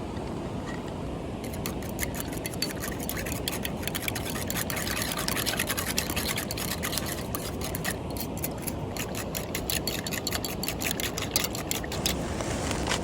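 Wood shavings burning in a small campfire, crackling with many irregular sharp snaps, over a steady rush of wind and water.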